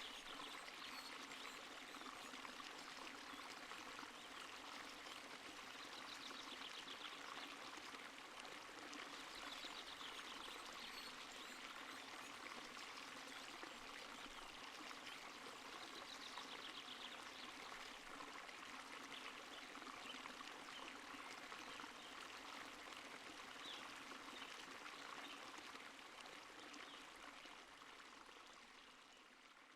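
Stream water flowing steadily with an even rushing sound, fading out over the last few seconds.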